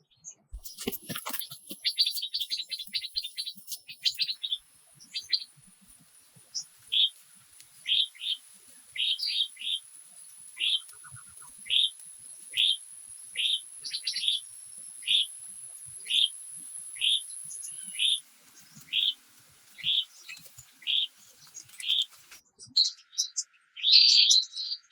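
A bird calling: a quick flurry of high chirps in the first few seconds, then one short high note repeated over and over, a little more than once a second, stopping a few seconds before the end. A steady thin high-pitched tone runs underneath and fades out in the second half.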